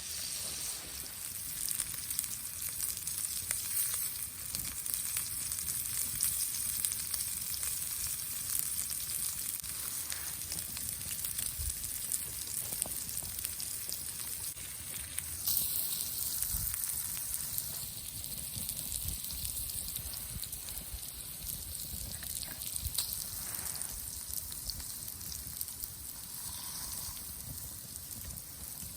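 Food sizzling and frying in a hot pan: a steady high hiss with small spitting crackles.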